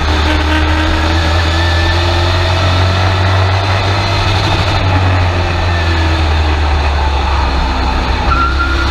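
Race truck engine running loud and steady, heard from inside the cab, its pitch rising and falling slightly with the throttle.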